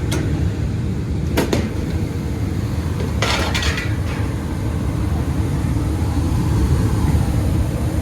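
Gas furnace running, a steady low rumble of its burners and blower, with a sharp metallic click about a second and a half in and a short metallic clatter a couple of seconds later.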